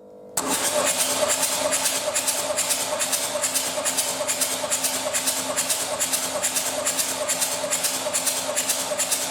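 Renault F9Q 1.9 dCi diesel engine on a test stand being turned over by its starter motor, pulsing evenly a few times a second over a steady whine, as in cranking for a compression test. It starts abruptly about half a second in.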